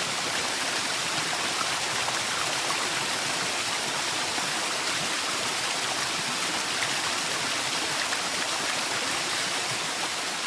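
Waterfall in a forest: a steady, even rush of falling and splashing water.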